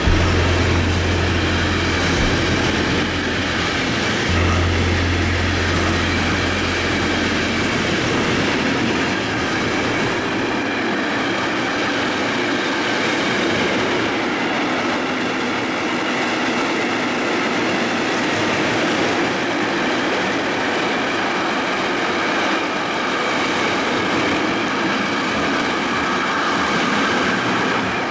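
Container freight train passing close at high speed: a steady rolling rumble and rattle of the wagon wheels on the rails. A deep low drone runs under it for the first eight seconds or so, then fades.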